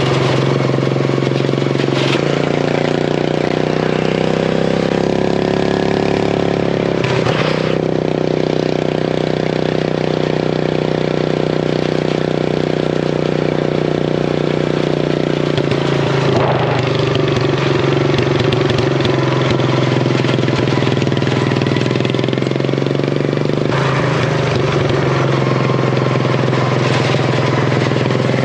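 Craftsman race mower's engine with an open header running steadily, its pitch shifting a few times as the revs change.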